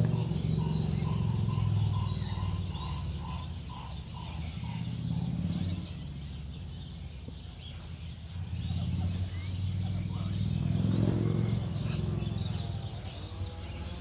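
Birds chirping and twittering, many short high calls scattered throughout, with a run of evenly repeated lower notes in the first few seconds, over a low rumble that rises and falls.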